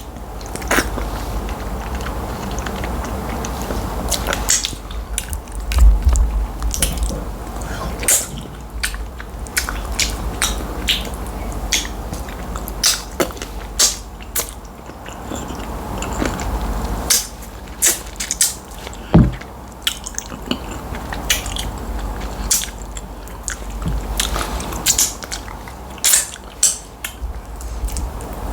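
Close-miked mukbang eating sounds: wet chewing and lip smacks with many irregular sharp clicks as tilapia fish light soup with starch is eaten.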